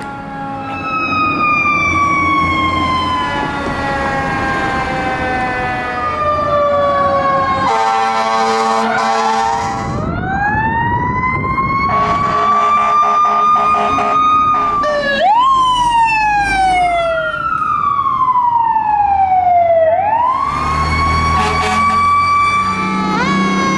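Sirens of emergency vehicles responding, heard in a run of short clips: long siren tones that wind up and fall slowly in pitch, sometimes two at once, changing abruptly every few seconds, with a quicker rising-and-falling siren near the end.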